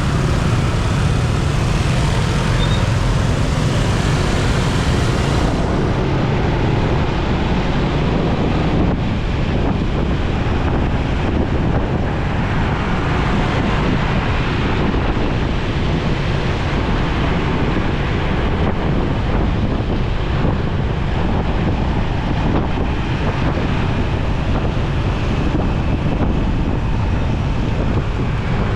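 Steady wind noise on the microphone over a motorcycle running along a road in traffic.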